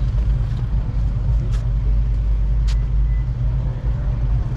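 Steady low rumble of car engines running, with two short, sharp hisses a little over a second apart near the middle.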